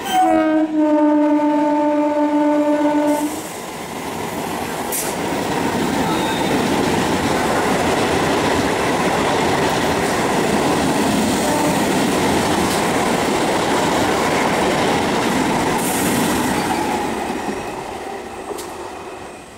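Indian Railways EMU electric passenger train sounding its horn as it passes at speed. The horn drops in pitch as the train goes by, then holds for about three seconds. The coaches then rush past with a steady noise of wheels on rail for over ten seconds, which fades near the end.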